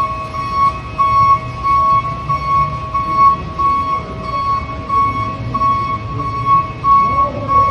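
Electronic beeping: one high tone repeating about twice a second, over a low rumble.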